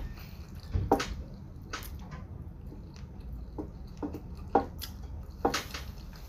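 Close-up chewing: a string of wet mouth clicks and smacks, several of them at irregular intervals.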